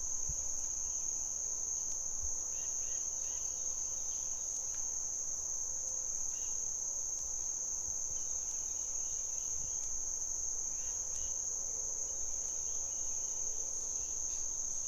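Insects in a steady, unbroken high-pitched chorus, with faint short chirps now and then.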